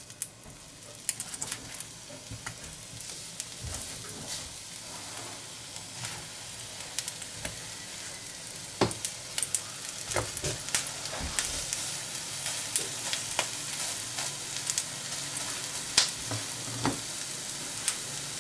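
Liver fritters sizzling in hot oil in a frying pan, the hiss growing louder over the first couple of seconds. Sharp pops and clicks sound throughout as the oil spatters and a spatula turns the fritters.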